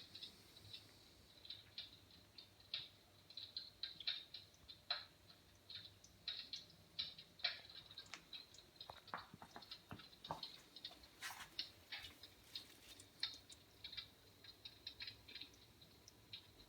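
Faint, irregular crackling and ticking from a fireplace that has just been started: scattered sharp little clicks at uneven intervals, with no steady rhythm.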